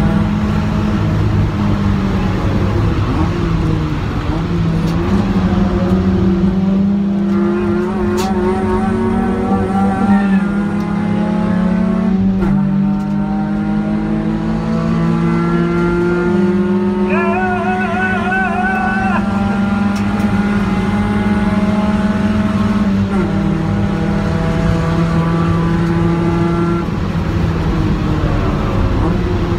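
A car's engine driven hard, heard from inside the cabin. Its pitch climbs and then steps down or up several times as gears change. A wavering high squeal joins in twice.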